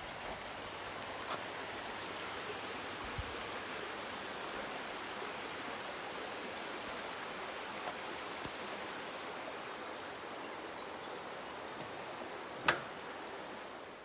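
Steady outdoor rushing noise with a sharp click near the end.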